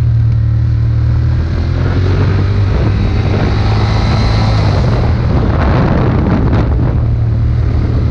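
Ducati Monster 1200's Testastretta L-twin engine running steadily under way, with wind buffeting the microphone.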